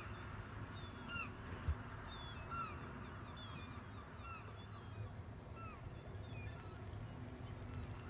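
Birds calling repeatedly, short arching notes about once or twice a second, over a steady low rumble.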